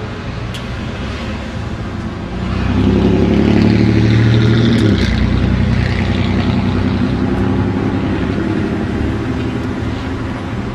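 A motor vehicle's engine running close by, growing louder about two and a half seconds in and then slowly fading, like traffic passing on a street.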